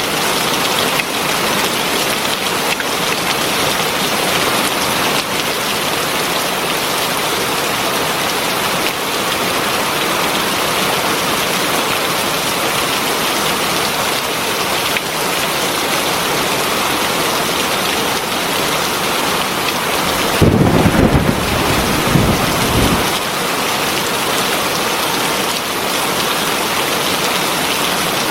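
Heavy rain pouring steadily onto a surface, an even hiss. About twenty seconds in, a low roll of thunder rumbles for two or three seconds.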